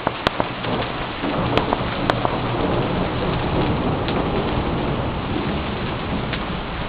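Heavy thunderstorm rain falling steadily, with a low rumble of thunder that swells about a second in and lingers. A few sharp taps sound in the first two seconds.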